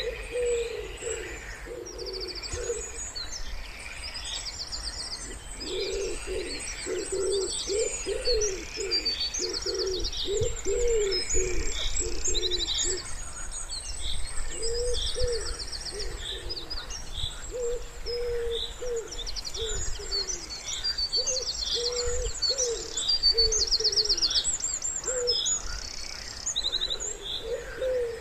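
Wood pigeon cooing in repeated runs of low coos, over continuous small-songbird song made of fast high trills and chirps.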